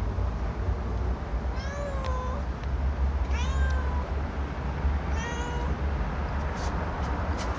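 Stray cat meowing three times, about a second and a half apart, over a steady low rumble.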